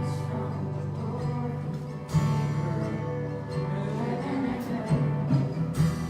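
Worship band music: strummed acoustic guitar over held bass notes, playing through the bridge of a worship song.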